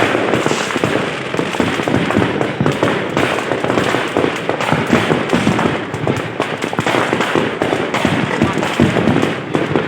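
Fireworks display in a dense, continuous barrage: rapid, overlapping bangs and crackles with no pause.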